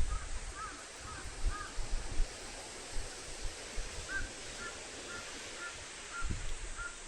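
A bird calling in two runs of short, clear notes, roughly two a second, over a steady hiss and scattered low thumps.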